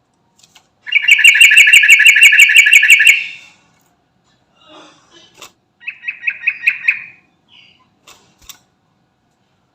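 Yellow-vented bulbul (trucukan) singing: a loud, rapid run of repeated bubbling notes lasting about two seconds, then after a pause a shorter run of the same notes.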